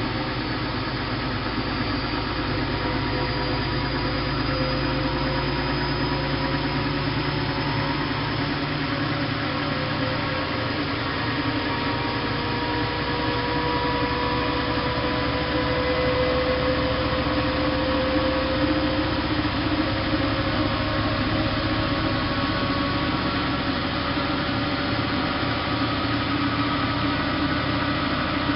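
Bosch WFK 2431 washing machine's drive motor running steadily, with a mechanical whine whose tones climb slowly in pitch around the middle.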